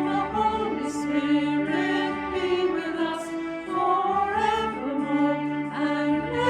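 A small singing group, women's voices prominent, singing a hymn over held accompaniment chords.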